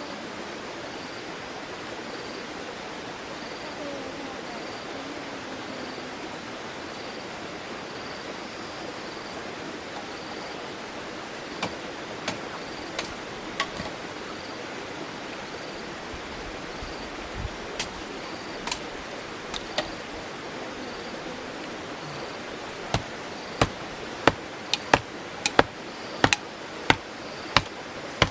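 Sharp knocks, a few scattered from about twelve seconds in, then a quicker run of them near the end, about two a second. Underneath runs a steady rushing noise with a faint high chirp repeating about once a second.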